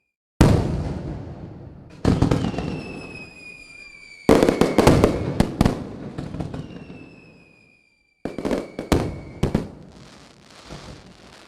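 Aerial fireworks bursting: a loud bang about half a second in, more bangs about two and four seconds in followed by a quick run of cracks, and another cluster of cracks near the end. A whistle, falling slightly in pitch, sounds over the bangs twice.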